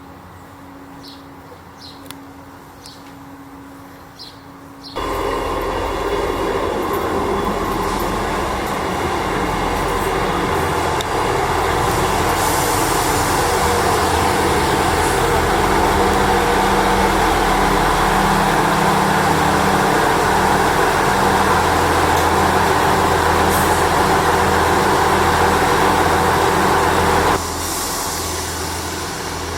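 A train running close by: a loud, steady rumble with a low drone that starts suddenly about five seconds in and drops away sharply near the end. Birds chirp before it.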